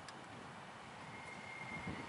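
A DB Intercity train approaching slowly over the tracks: a faint rumble, with a thin steady squeal from the train starting about a second in and low knocks from the wheels near the end.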